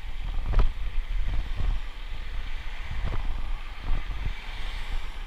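Wind on the microphone during a bike ride: a low rumble that rises and falls in gusts.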